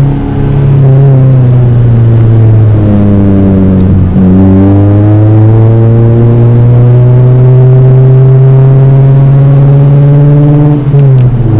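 2001 Toyota Celica GT-S's four-cylinder engine pulling hard, heard loud from inside the cabin. Its note dips briefly about four seconds in, climbs steadily for several seconds, then drops sharply near the end.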